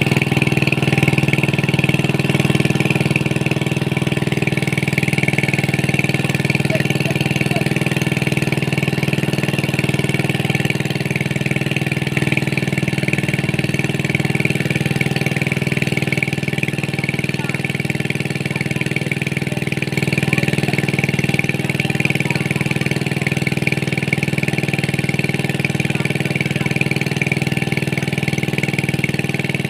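A small engine running steadily at a constant speed, with an even low pulsing and no change in pitch or level.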